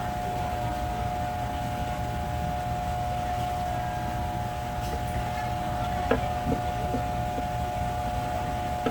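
A steady machine hum with a constant whining tone, and a few light clicks or taps about six to seven seconds in.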